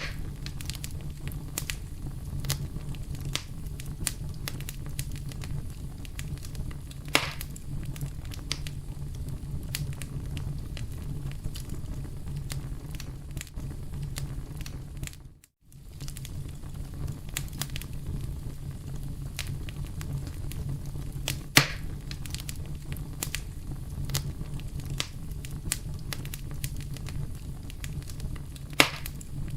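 Wood fire burning, crackling steadily over a low rush of flame, with scattered sharp pops, three of them louder. About halfway through, the sound drops out briefly.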